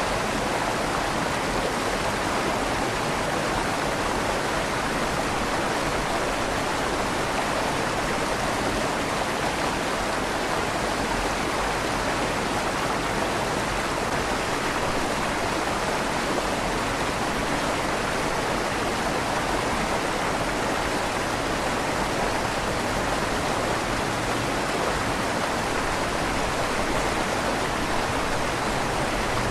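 River water flowing steadily through a stone tunnel under a bridge, an even rushing with a slight echo off the tunnel walls.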